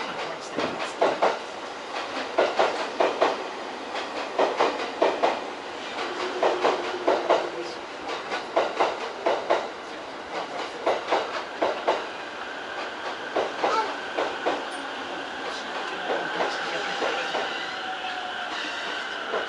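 A train passing on the adjacent track, its wheels clacking over the rail joints in repeated groups of two to four, followed by a steady whine in the last few seconds.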